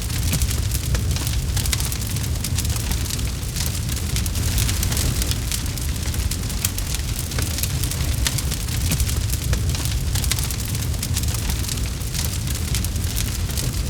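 Campfire burning with frequent small sharp crackles and pops over a steady low rumble of the flames.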